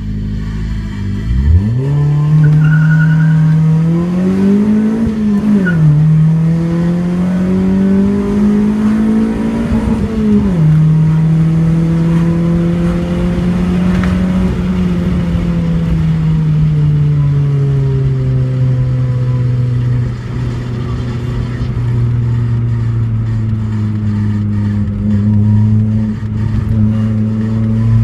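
Honda Civic's D16Y8 1.6-litre four-cylinder, breathing through a cold-air intake, 4-2-1 header and Tanabe Hyper Medallion exhaust, accelerating hard from a standstill. The engine pitch climbs through first gear, drops at an upshift about five seconds in, climbs through second, and drops at a second upshift about ten seconds in. It then holds fairly steady in the higher gear and gradually settles lower.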